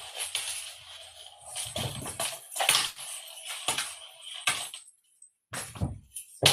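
Cat toy being batted and tossed about by cats: irregular knocks and rattling clatter, with a couple of short pauses about five seconds in.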